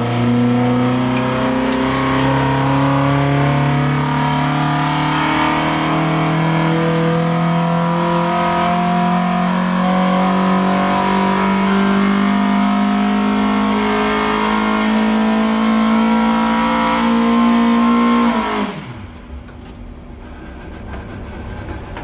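Ford Pinto 2.1-litre four-cylinder engine on twin Weber carburettors pulling under load on an engine dyno, its pitch climbing steadily up through the revs to about 6,500 rpm in a power run. Near the end the throttle is shut and the note falls away quickly to a much quieter idle.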